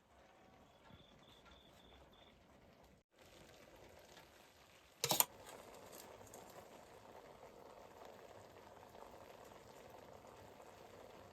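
A cooking pot of food boiling faintly, a steady bubbling that follows a sharp knock about five seconds in.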